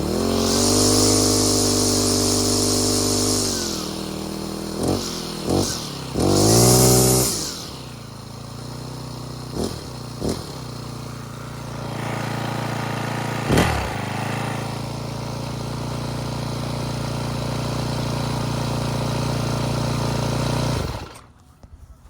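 Small gasoline string trimmer engine running. It is held at high revs for a few seconds, then blipped several times, then settles into a steady idle. It shuts off suddenly about 21 seconds in.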